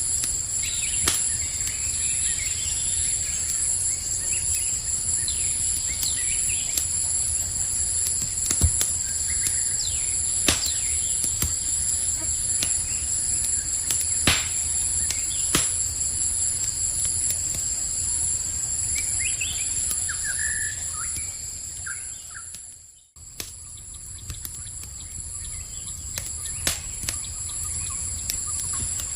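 Campfire crackling with scattered sharp pops, over a steady high-pitched insect chorus, with a few bird chirps near twenty seconds in. The whole sound fades out almost to nothing about twenty-three seconds in and swells back.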